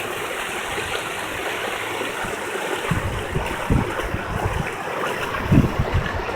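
Steady rush of river water pouring over a drop, with low gusts of wind buffeting the microphone from about halfway through.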